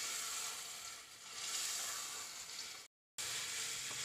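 Minced meat (keema) frying in spiced oil in a pan, sizzling as it is stirred with a plastic spatula. The sizzle swells and fades twice and cuts out briefly about three seconds in.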